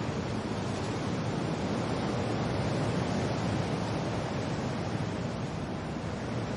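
Steady wind and rain noise, an even low rushing without distinct drops or gusts.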